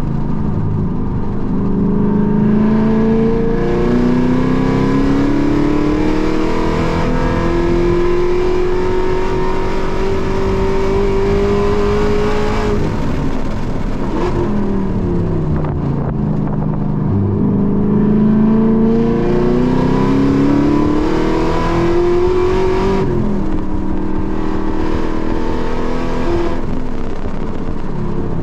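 Car engine heard from inside the cabin, pulling hard on a race track. Its pitch climbs in long rising sweeps through about the first twelve seconds, drops away as the car slows with downshifts, climbs again for several seconds, and then runs steadier near the end.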